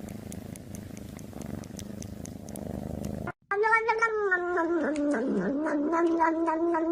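Cat purring steadily. After a sudden cut about three seconds in, a loud drawn-out wail falls in pitch and is then held for several seconds.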